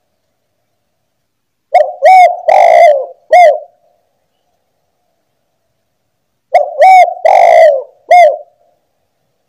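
Spotted dove (tekukur) cooing loudly: two phrases of about four notes each, a short note, another short one, a longer one and a final short one, repeated about five seconds apart.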